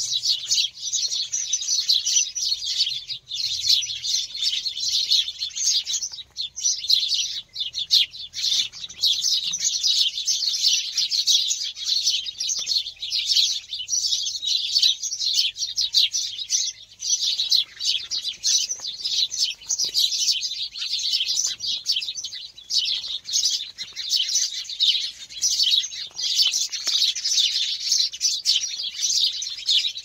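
Many small birds chirping at once in a dense, unbroken chorus of quick, high-pitched chirps and twitters.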